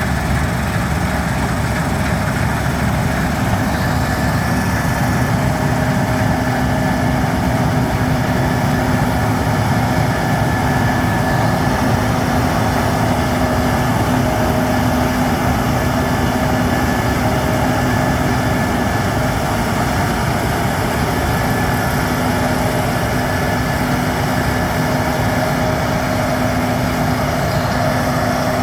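Case IH 7150 combine harvester running steadily as it harvests wheat: a continuous mechanical drone with several constant pitched tones held through it.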